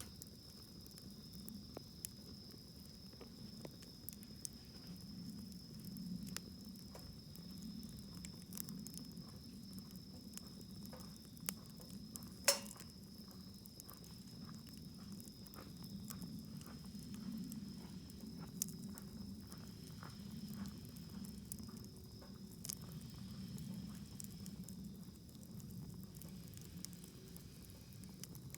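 Wood campfire crackling, with scattered sharp pops over a low rushing of flames; one much louder snap about twelve seconds in. A steady high-pitched tone runs under it.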